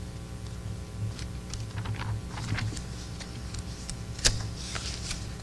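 Pages of a scripture book being leafed through: soft rustles and small paper clicks, with a sharper tap and a brief swish of a page about four seconds in, over a low room hum.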